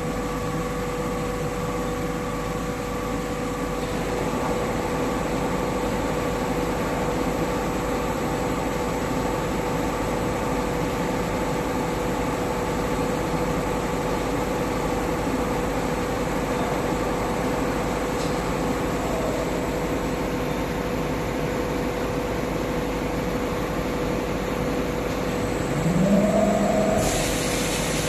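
Internal and external grinding machine running: a steady mechanical hum with a constant tone. Near the end comes a short, louder whine that bends in pitch.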